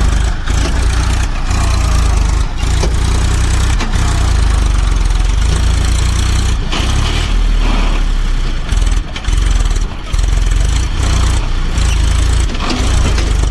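Massey Ferguson 1035 tractor's three-cylinder diesel engine running steadily with a heavy low rumble, under the load of a water tanker.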